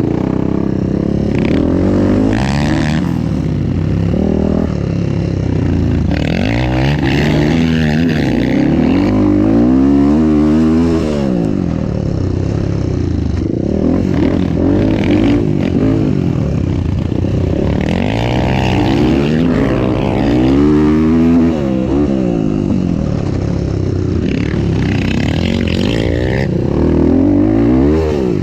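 Motorcycle engine revving up and easing off over and over as the bike is ridden on a dirt track, its pitch climbing and dropping several times.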